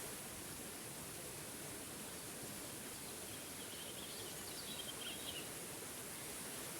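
Small forest waterfall rushing steadily, with a bird chirping a short run of high notes about three seconds in.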